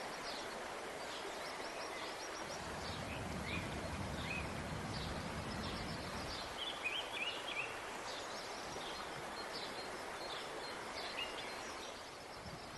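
Rural outdoor ambience: a steady soft hiss with small birds chirping now and then, including a quick run of chirps about seven seconds in.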